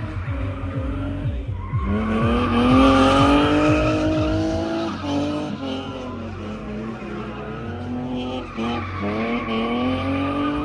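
Drift car's engine revving hard while its tyres squeal through a slide. The pitch climbs sharply about two seconds in, dips briefly twice in the middle, and climbs again near the end.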